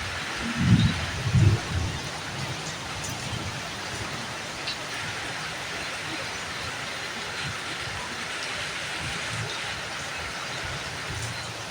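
Steady rain falling, with scattered drops tapping on surfaces. Two dull low thumps, less than a second apart, come about a second in.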